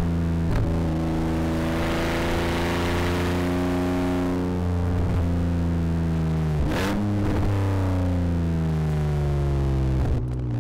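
Rally car engine running hard on a stage. Its pitch holds, then drops with a short break several times, like gear changes, and falls away near the end.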